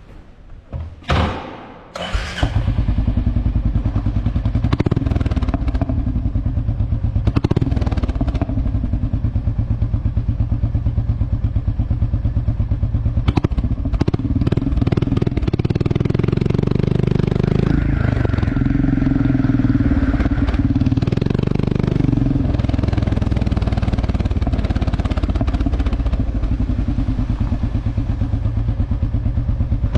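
Royal Enfield motorcycle engine starting about two seconds in, then running steadily through its exhaust, revved up briefly twice around the middle.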